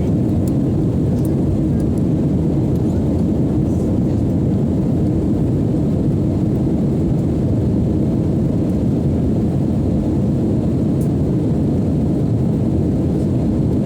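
Steady low drone of a LATAM airliner's jet engines and airflow, holding one level without rising or falling.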